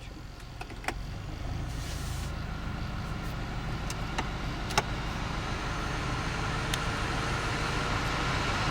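Honda car's air conditioning running with the engine idling: a steady rush of air from the blower over a low engine hum, slowly growing louder, with a few light clicks.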